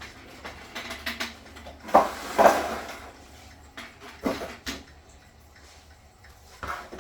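Knocks and clatter of the wood-and-plastic parts of an empty observation beehive being handled, the loudest two knocks coming close together about two seconds in, with lighter taps before and after.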